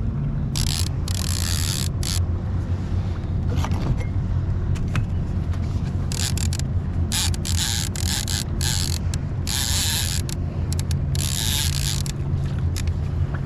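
Fishing reel being cranked, a mechanical whirring and clicking, while a hooked fish is brought in to the kayak. Under it runs a steady low mechanical hum, with irregular gusts of hiss.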